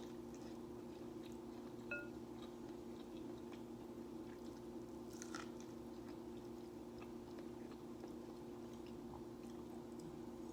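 Close-up chewing and mouth noises of someone eating, with small wet clicks over a steady low hum. A short high blip sounds about two seconds in.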